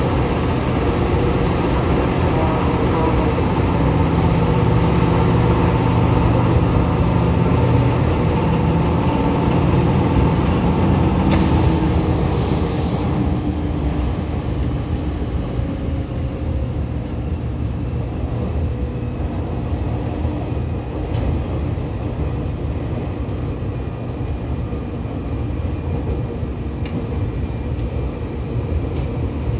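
Seibu 2000 series electric commuter train running, heard from inside the car: a steady rumble of wheels on rail with motor hum, carrying the knock of a flat spot on a wheel. A short hiss of air about a third of the way in, after which the running sound eases a little.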